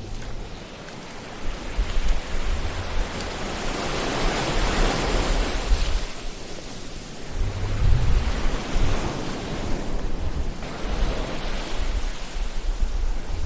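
Ocean surf: waves breaking and washing in, swelling about four seconds in and again near eight seconds.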